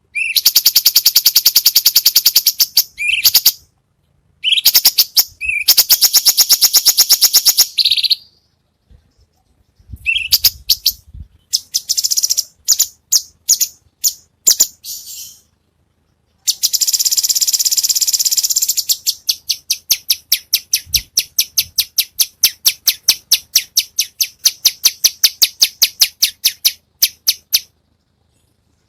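Small songbird singing loud, high-pitched rapid trills of repeated sharp notes in several separate phrases, the last a long run of evenly spaced notes at about five a second; a masteran recording played to teach caged songbirds.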